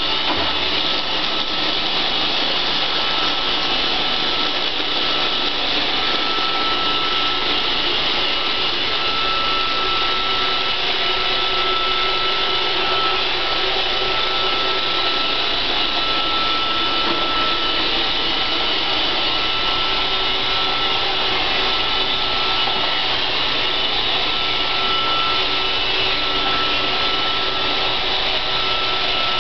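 iRobot Roomba 560 robot vacuum running steadily while cleaning, a continuous motor whir with a thin high whine.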